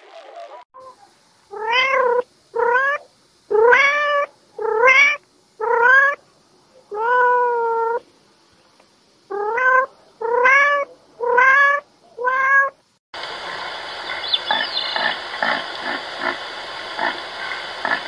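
A domestic cat meowing about ten times, each meow rising then falling in pitch, with one longer, drawn-out meow in the middle. About thirteen seconds in, the meows give way to a steady hiss with irregular clicks.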